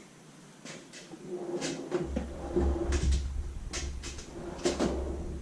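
Light metal knocks and clicks, about eight spread irregularly, as a snap ring is tapped down into its groove around a new ball joint in a steel upper control arm. A steady low hum comes in about two seconds in.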